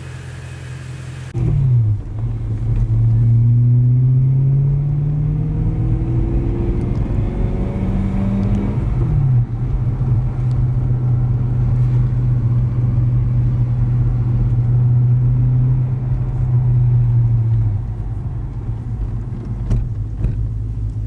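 BMW E90 M3's V8 engine, with freshly fitted rod bearings, pulling on the road. Its pitch climbs steadily for about eight seconds, drops at a gear change, holds level while cruising, then eases off near the end.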